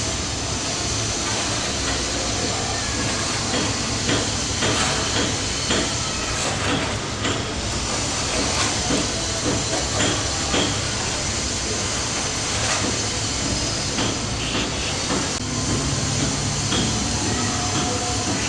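Steady hiss with light, irregular taps and clinks of a utensil as icing sugar is dusted over chocolate-coated cookies.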